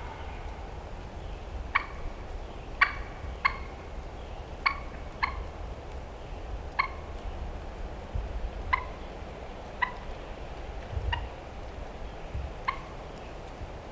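Turkey clucking: about ten short, sharp single notes at irregular intervals of roughly a second, over a low wind rumble.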